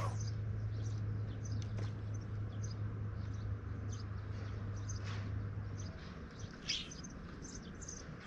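Small birds chirping, short high calls scattered throughout, over a steady low hum that stops about six seconds in.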